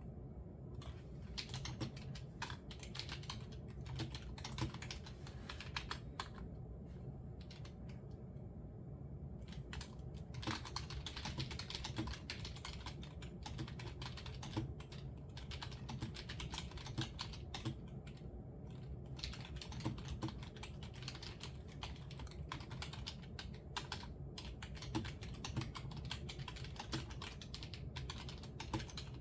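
Computer keyboard typing: quick, irregular key clicks in runs with short pauses between them, over a steady low background hum.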